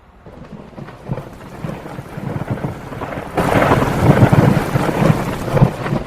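Heavy thunderstorm rain pelting down, swelling sharply louder a little past halfway.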